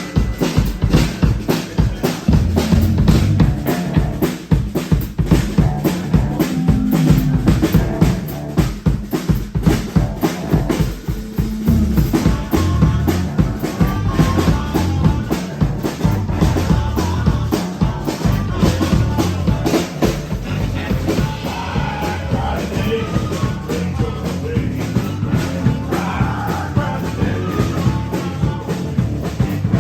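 Live rock band playing, with a drum kit keeping a steady beat.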